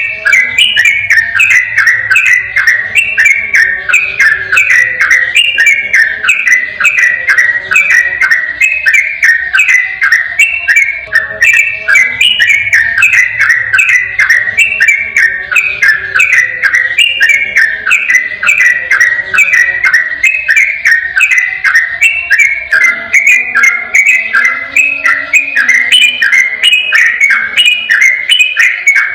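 Sooty-headed bulbul (trucukan) singing a long, unbroken run of rapid whistled notes, two or three a second, each sliding downward. This is the fast 'ropel' song used as a tutor recording.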